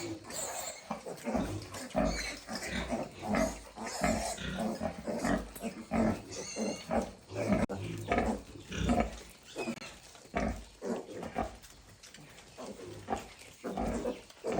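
Piglets grunting over and over in short, irregular calls, with a higher squeal about six seconds in; the calls of hungry piglets wanting milk.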